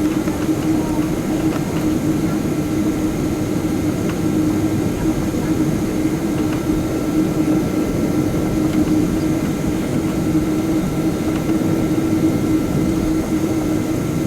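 Cabin noise inside a McDonnell Douglas MD-11 jetliner: jet engine and airflow noise running steadily, with a steady low hum throughout.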